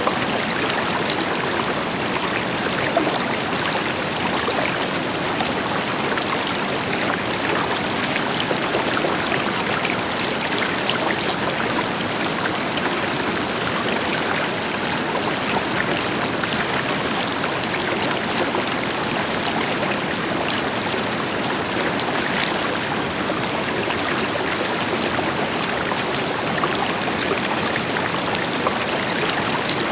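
River water flowing steadily over rocks, a constant rushing with small splashes and trickles, with a deeper wash from a waterfall behind it.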